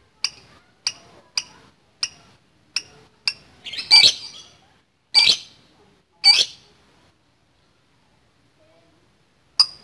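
Lovebird calling: a run of short sharp chirps about every half second, then three louder, longer harsh squawks, a pause, and one more chirp near the end.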